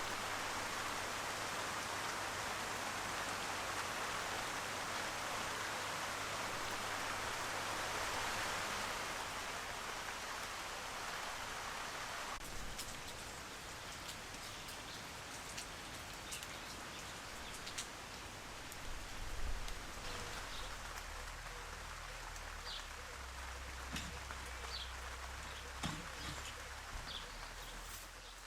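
Steady rain falling, a dense even hiss that drops abruptly to a softer patter about halfway through. Short high chirps come through over the softer part.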